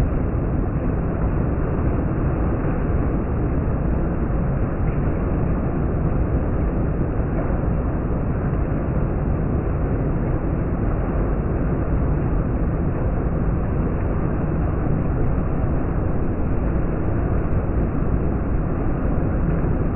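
Steady heavy rain falling, a constant even rush of noise with no breaks.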